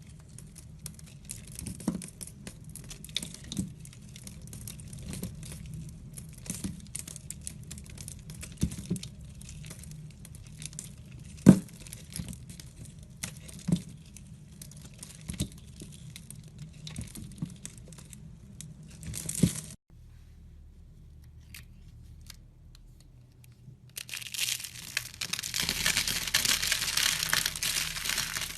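A knife cutting and scraping into a bar of soap: a steady fine scratching with a sharper cut every second or two. The sound breaks off suddenly about two-thirds of the way in, and near the end a louder, dense, continuous scraping starts.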